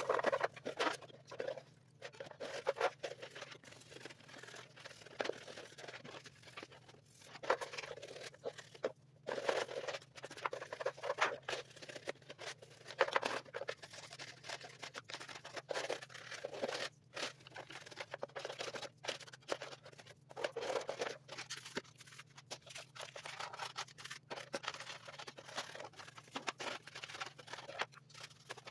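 Irregular small clicks, scratches and rustles in a small room, over a steady low hum.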